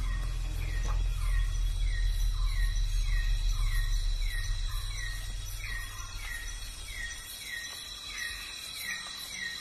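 Forest ambience: a steady, high-pitched insect drone, with a short falling call repeated a little more than once a second. A low rumble underneath fades out about seven seconds in.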